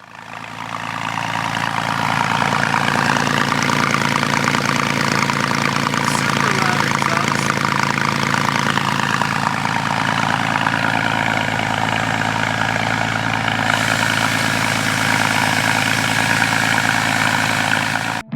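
Porsche 911 Carrera S flat-six engine idling steadily, fading in over the first two seconds.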